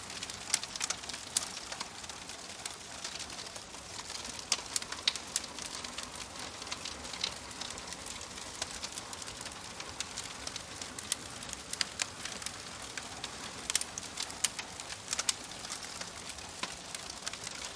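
Wood fire crackling: a steady soft hiss with frequent sharp pops at irregular intervals.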